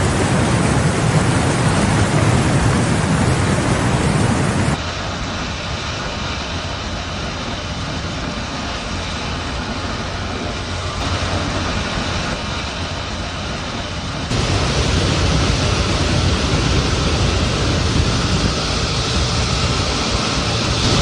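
Steady roar of storm and flood noise, like rain and rushing water, in three stretches joined by sudden cuts about 5 and 14 seconds in. The first and last stretches are louder, with more low rumble.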